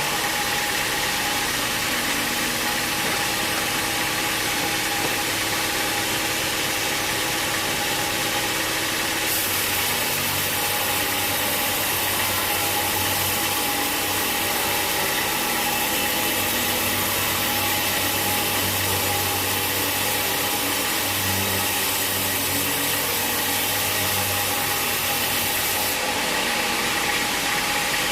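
Sawmill machinery running steadily, an engine-driven mill with a continuous mechanical drone and hiss; the hiss grows brighter about a third of the way in and eases again near the end.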